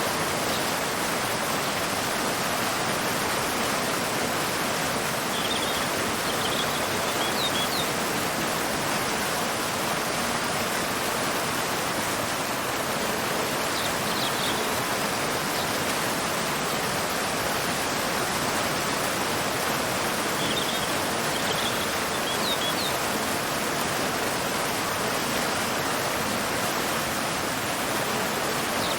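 Steady rushing of a waterfall pouring into a river, with short high bird chirps a few times.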